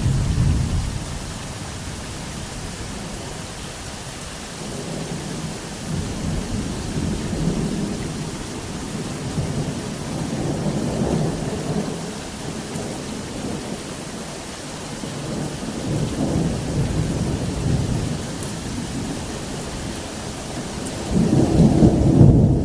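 Thunderstorm: a steady hiss of heavy rain under repeated rolls of thunder that swell and fade every few seconds, with the loudest peal breaking out near the end.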